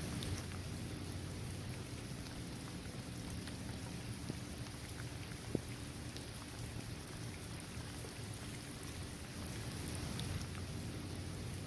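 Steady rain falling on a paved basketball court, trees and grass, a continuous hiss dotted with the ticks of single drops, one sharper drop striking about halfway through.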